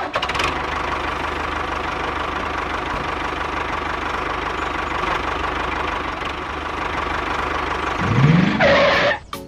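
Small engine or motor running steadily with a fast, even chugging, like a tractor idling. Near the end a rising whine swells briefly before the sound cuts off.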